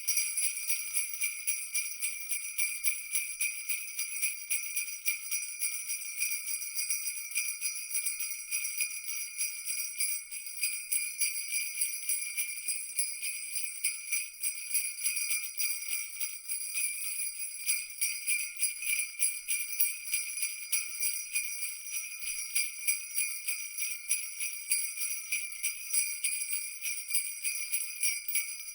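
Small jingle bells shaken continuously: a dense, rapid jingling over a steady high ringing.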